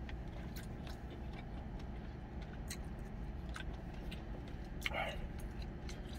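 Chewing and small mouth clicks of someone eating stew, scattered through, over a steady low hum, with one brief louder sound about five seconds in.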